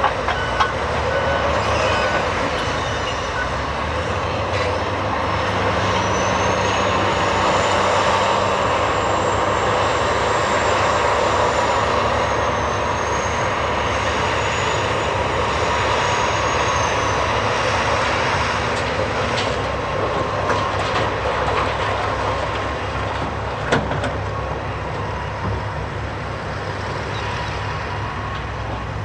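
Cat 390F excavator loading a Cat 773G haul truck: large diesel engines running steadily under load. A thin, high-pitched metallic squeal rises and wavers for about ten seconds midway, and a single sharp knock comes near the end.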